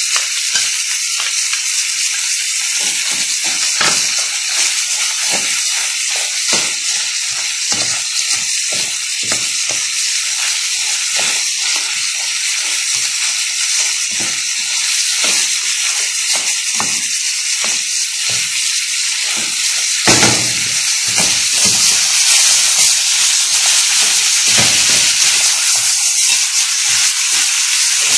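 Crayfish frying in oil in a metal pan: a steady sizzle while a wooden spoon stirs them, with frequent sharp clicks and scrapes of shells and spoon against the pan. The sizzle grows a little louder about twenty seconds in.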